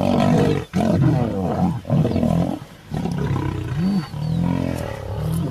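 Lions growling and snarling in a fight, in several loud bouts broken by short pauses: male lions attacking a rival male in a territorial fight to the death.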